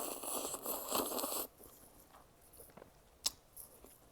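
A person eating a bowl of fire-noodle ramen close to the microphone: loud, noisy mouth sounds for the first second and a half, then quiet chewing with a few small ticks and one sharp click about three seconds in.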